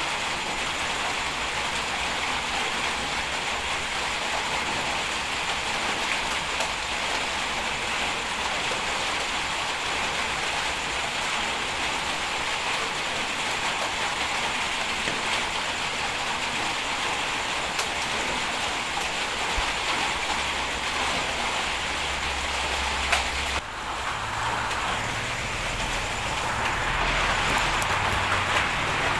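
Bulldozer working: a steady engine and track noise with a low rumble that rises and falls. The sound changes abruptly a little over twenty seconds in.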